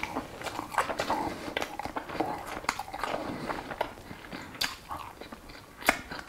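A person chewing a mouthful of food close to the microphone: irregular wet clicks and smacks of the lips and tongue.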